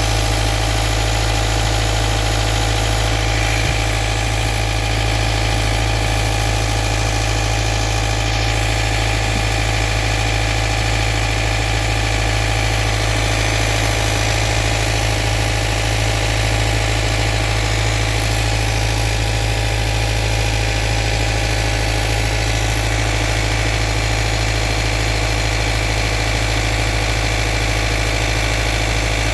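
Subaru FB16 DIT 1.6-litre turbocharged flat-four engine idling steadily with a knock, the noise the owner is recording as a fault.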